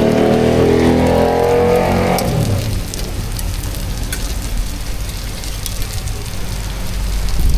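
A motor vehicle passing close by, its engine note sliding down and fading away in about the first two and a half seconds. After that comes a lower, steady hum with a few light clicks.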